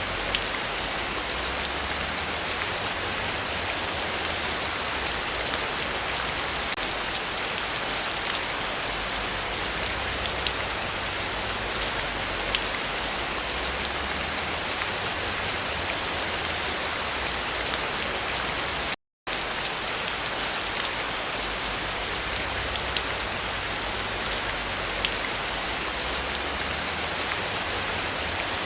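Heavy rain falling steadily, an even hiss with many small drop ticks. The sound cuts out completely for a split second about two-thirds of the way through.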